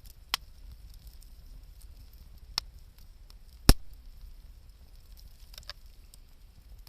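Wood fire crackling, with three sharp pops, the loudest a little past halfway, and a few fainter ticks near the end.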